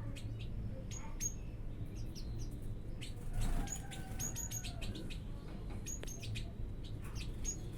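A flock of aviary birds chirping: many short, high chirps scattered throughout, over a steady low rumble.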